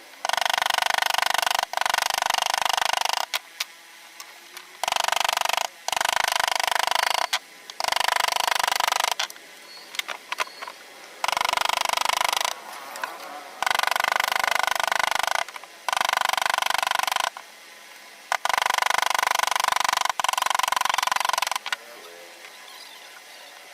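A handheld power tool working wood, run in about ten bursts of a second or two each, with short pauses between.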